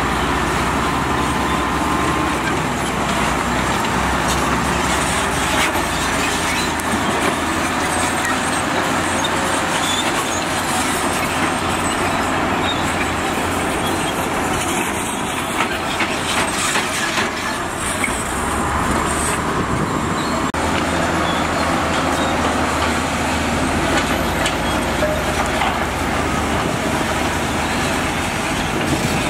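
Diesel engines of heavy construction machinery running steadily, their low engine note shifting a couple of times, with a few scattered knocks.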